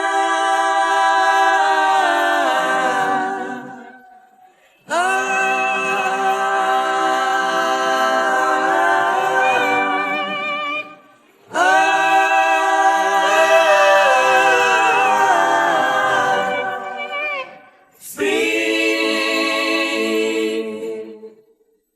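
Unaccompanied multi-part vocal harmonies, sung without words in four long held phrases with short breaks between them.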